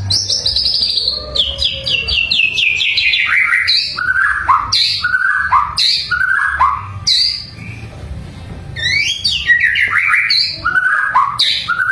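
A bird singing: a fast run of short notes falling steadily in pitch, then a string of short downslurred whistles, with another falling run about nine seconds in.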